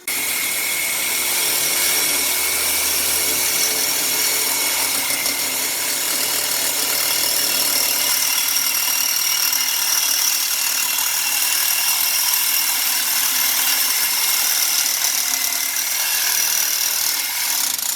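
A power tool running steadily, with a faint high whine over a loud hiss.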